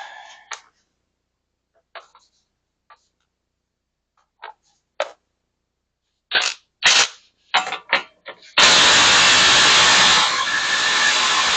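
Impact wrench on the 36 mm axle nut of a CV axle: a few short bursts, then a long loud continuous run beginning about three seconds before the end, working the nut loose.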